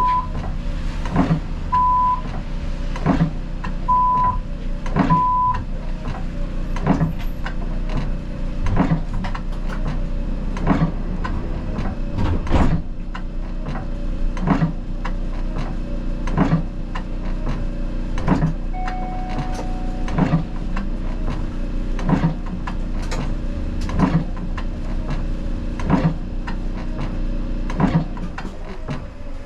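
Siemens Combino tram running, heard from the driver's cab: a steady low motor hum, with a sharp tick about once a second throughout. Four short high beeps sound in the first six seconds, and a single longer beep sounds about two-thirds of the way in.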